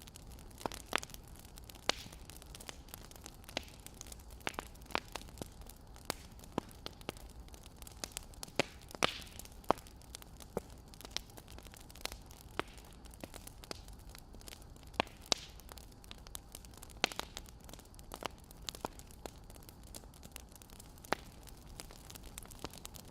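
Wood fire crackling: irregular sharp pops and snaps, about one or two a second, over a faint steady hiss.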